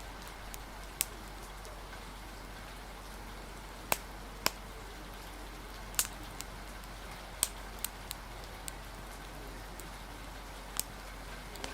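Steady hiss of rain with the sharp, irregular pops of a crackling wood fire, about eight pops, the loudest about four and six seconds in.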